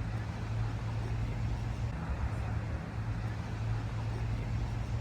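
Steady low rumble of traffic noise, with a constant low hum underneath.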